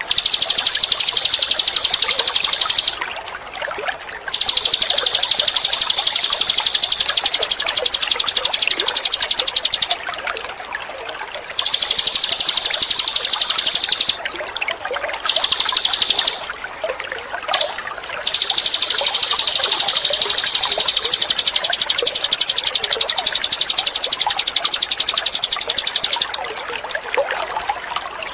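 Ninin eurih calling: a high, rapidly pulsed buzz held in long phrases, broken by about six short pauses, over a steady trickle of running water.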